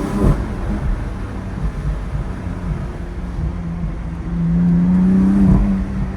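Car engine pulling under acceleration, its note climbing and then dropping sharply at a gear change, once just after the start and again about five and a half seconds in.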